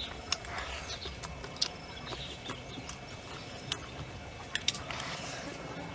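Chickens clucking softly and irregularly, with a few sharp clicks.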